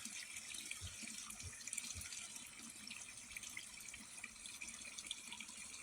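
Faint steady rush of running water, with a few soft thuds about one and two seconds in.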